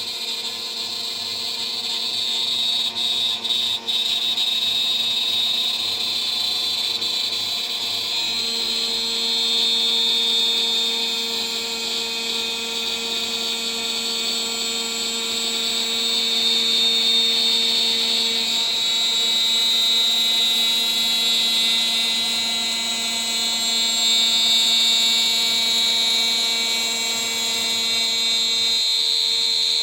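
DIY CNC machine's spindle turning a 3 mm three-flute end mill at about 14,000 RPM as it mills, with a continuous high whine over a low steady hum. The level swells and eases slightly as the cut goes on.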